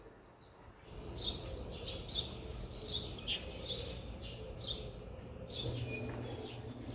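A small bird chirping over and over, short high chirps about one a second. Near the end a low steady hum comes in.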